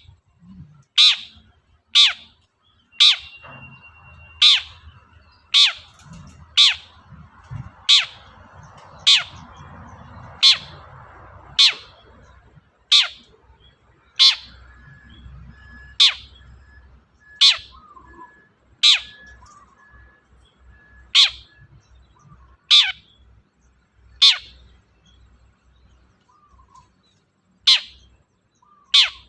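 Long-tailed shrike (cendet) giving short, sharp downward-sweeping calls over and over, about one every second or so, with a brief pause near the end.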